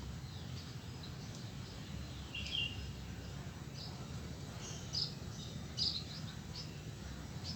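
Birds chirping in short, scattered calls, about half a dozen, over a steady low background rumble.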